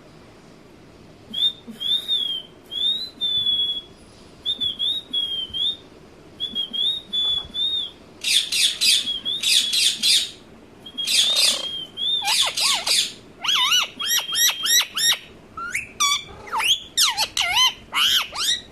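Ringneck parrot calling: short, wavering, whistle-like notes in brief phrases, then from about halfway loud, harsh screeches in rapid runs with quickly sweeping pitch.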